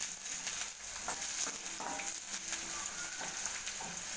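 Onions and curry leaves sizzling in hot oil in a stainless steel pan, stirred with a slotted metal spoon that scrapes and taps against the pan. The sizzle is a steady hiss, and the spoon's strokes come often and irregularly.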